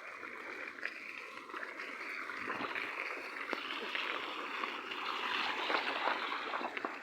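Steady watery hiss, getting a little louder after the middle, with a few faint clicks.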